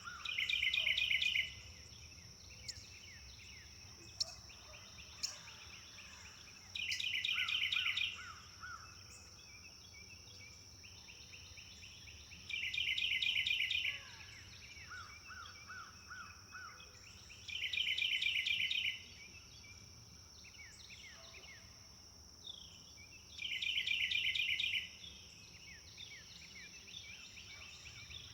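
Wild birds singing: one bird repeats a short, rapid trilled phrase five times, about every five to six seconds, with softer calls from other birds between. A steady high-pitched insect drone runs underneath.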